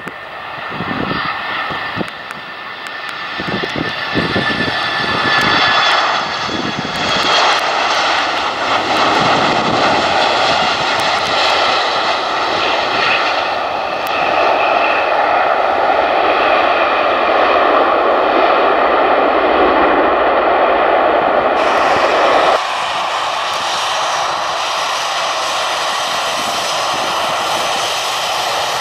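Jet aircraft engines running close by, growing louder over the first few seconds and then holding a loud, steady rush with a high turbine whine. About 22 seconds in, the sound drops abruptly to a lower level.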